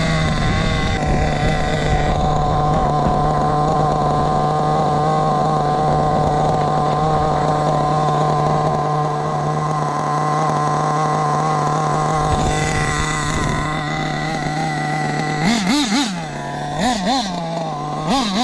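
Kyosho KE21SP two-stroke nitro engine in an HPI Bullet RC car, running steadily at one speed. About three seconds before the end, the revs rise and fall in a few quick throttle blips.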